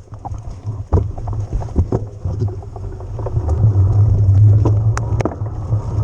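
Electric mountain bike ridden over rough ground, with a heavy wind rumble on the microphone and frequent sharp knocks and rattles from the bike. The rumble grows louder about halfway through.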